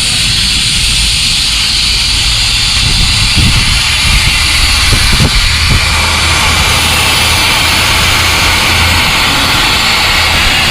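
DAF truck engine running steadily at idle, with a steady hiss over it and a few light knocks about three to six seconds in.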